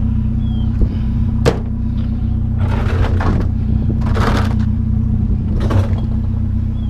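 A vehicle engine idling steadily with a low hum. Over it come a sharp knock about one and a half seconds in and a few short scraping, rustling bursts as a freezer is handled.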